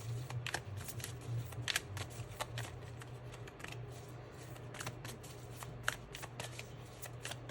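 Tarot cards being shuffled and handled: a run of irregular quick flicks and paper-like clicks as the cards riffle and are laid down, over a low steady hum.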